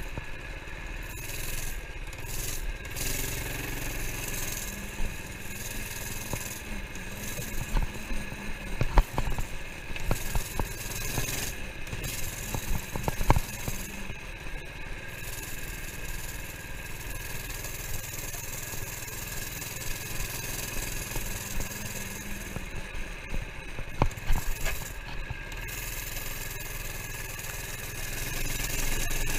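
Small minibike engine running steadily while riding, with bursts of sharp knocks and rattles about a third of the way in and again near the end.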